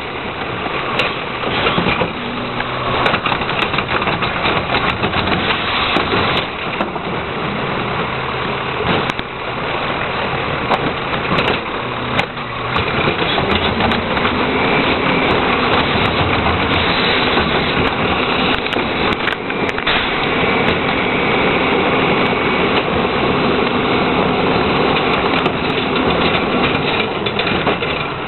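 Heil 5000 rear-loader garbage truck running, its diesel engine at a steady idle, then rising in pitch about halfway through and holding at the higher speed.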